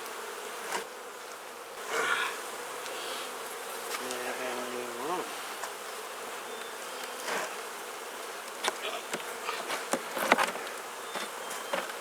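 Honeybees buzzing in a steady hum around an open Langstroth hive, with a louder buzz that rises in pitch about five seconds in. Scattered knocks and clicks come through the hum.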